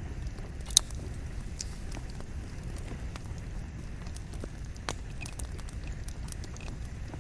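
Campfire of burning firewood crackling, with scattered sharp pops over a steady low rumble of flame. The loudest pop comes just under a second in.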